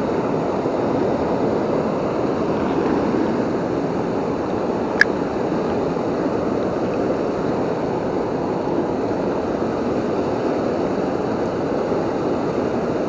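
Steady rush of water pouring over a waterfall, with a single sharp click about five seconds in.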